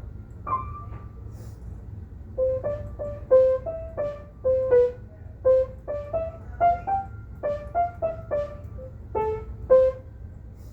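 Solo instrumental music: a slow melody of single struck or plucked notes, about two to three a second, moving up and down in the middle range over a steady low hum. A couple of notes sound early, the melody fills in about two seconds in, and it stops shortly before the end.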